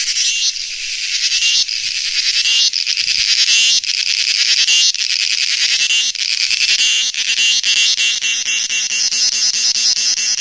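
A loud chorus of crickets chirping, a dense high-pitched trill that swells and breaks in phrases about a second long. A faint low hum joins about two-thirds of the way through.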